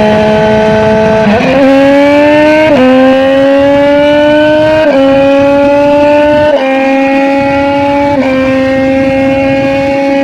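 Triumph Daytona 765 Moto2's three-cylinder engine accelerating through the gears, heard onboard. Its pitch climbs steadily, then drops sharply with each upshift, about every two seconds.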